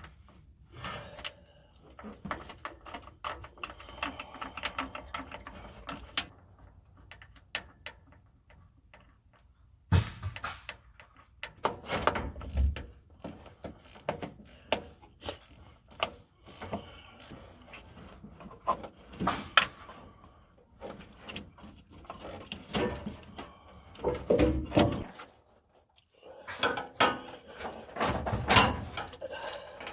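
Irregular clicks, knocks and scraping rattles of hand work in a truck's engine bay: tools being handled and parts and wiring being unbolted and pulled off during an engine teardown.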